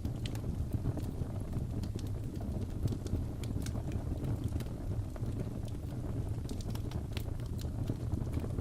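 Wood fire crackling in a fireplace: a steady low rumble with frequent sharp crackles and pops scattered irregularly throughout.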